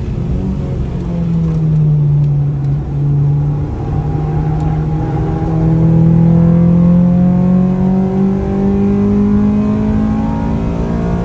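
Car engine heard from inside the cabin while lapping a race track. Its pitch drops about a second in, stays low for a couple of seconds, then climbs steadily and without a gear change through the rest as the car accelerates under load.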